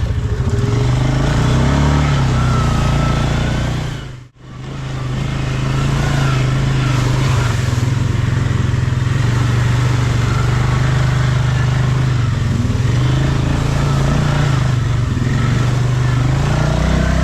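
ATV engine running under way, a steady drone that rises and falls a little in pitch. It cuts out for a moment about four seconds in.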